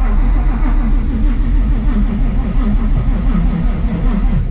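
Whipple-supercharged, cammed Ford Coyote V8 running loud and choppy on a fresh start, described as very poppy, then dropping away suddenly near the end. The owner worries about the popping and suspects it is short of fuel or has ignition timing off, since it keeps dying after a few seconds.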